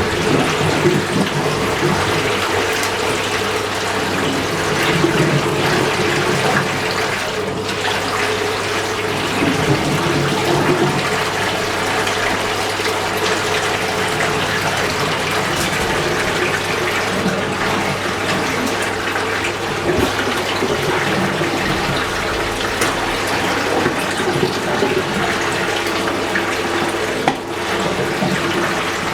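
Fisher & Paykel MW512 washing machine running, with a steady rush of water over a constant low hum.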